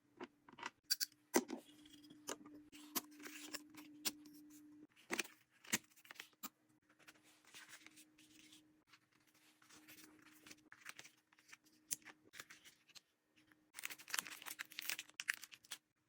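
Packaging for an order being handled by hand: a string of sharp taps and clicks mixed with short rustles, with the busiest, loudest stretch near the end. A faint steady hum sits underneath.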